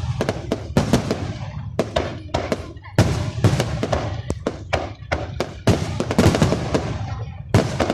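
Fireworks display: a rapid, irregular series of bangs from bursting shells, about three a second, some with a short rumbling tail.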